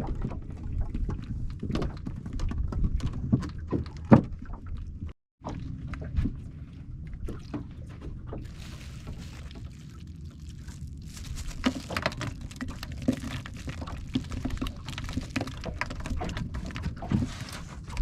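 Small boat moving on the water: water sloshing against the hull with scattered knocks and clatters on the boat over a steady low rumble. The sound cuts out completely for a moment about five seconds in.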